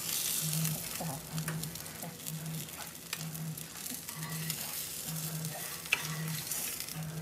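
Salmon fillets sizzling in a nonstick frying pan, pan-fried without oil, while a spatula lifts them out, with scattered scrapes and clicks of the spatula against the pan.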